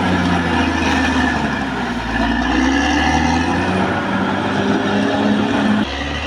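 Caterpillar D6R XL bulldozer's diesel engine running steadily under load, its pitch rising and falling a little. Near the end the sound drops abruptly.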